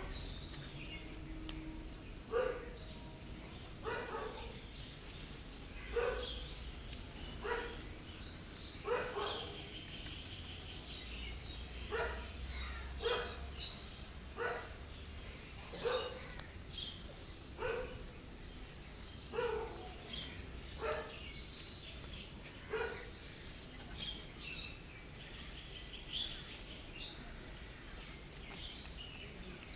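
Stray cat meowing over and over, short calls about every one and a half to two seconds that stop a few seconds before the end, with faint bird chirps behind.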